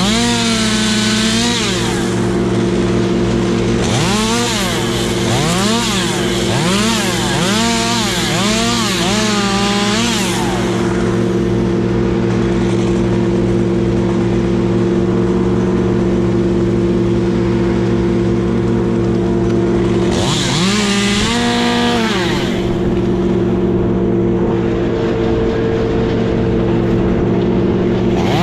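Chainsaw revved up and down repeatedly in short bursts, about six in quick succession, then again briefly later. A steady engine drone runs underneath.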